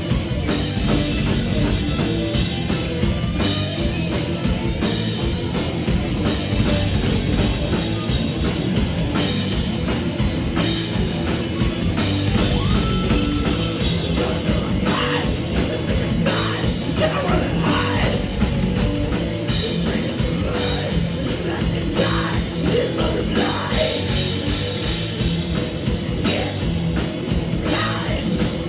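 A rock band playing loud, heavy rock with a drum kit and electric guitar.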